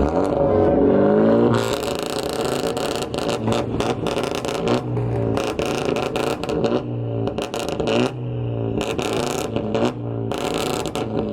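A car engine revved repeatedly, its pitch rising and falling several times, with many sharp cracks and pops from the exhaust between the revs.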